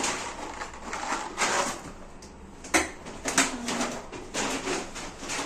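Plastic packaging rustling and crinkling in irregular bursts as groceries are handled, with a few faint low tones partway through.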